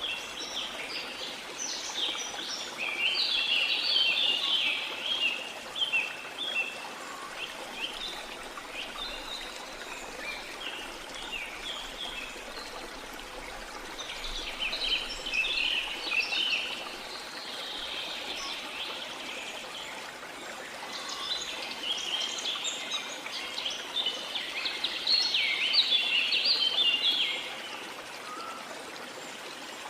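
Steady rush of a waterfall with tropical rainforest birds singing over it in several stretches of rapid chirping.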